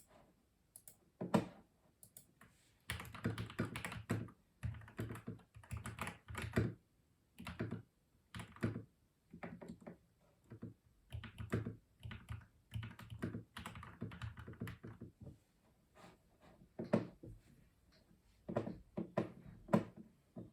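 Custom mechanical keyboard being typed on, keystrokes clacking in irregular runs with brief pauses between bursts and a few single, louder strokes.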